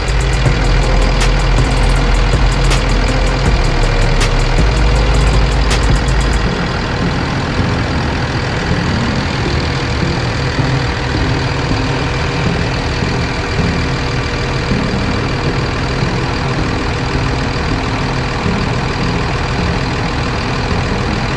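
Cummins diesel engine of a diesel-pusher motorhome idling steadily with a heavy low rumble. The deepest part of the rumble drops away about six seconds in.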